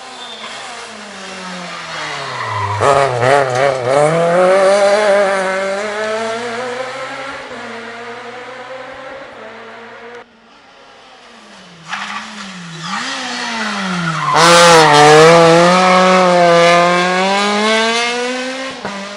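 Two rally cars going by one after the other at full speed. Each engine's pitch drops as it brakes and shifts down, then climbs hard as it accelerates past, loudest as it passes and fading away; the second car's revs dip twice briefly just before it goes by.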